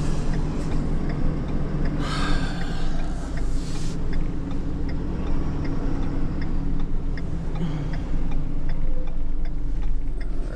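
Truck engine running steadily, with a regular tick of the indicator or hazard relay about twice a second. A rush of noise lasts about two seconds, starting about two seconds in.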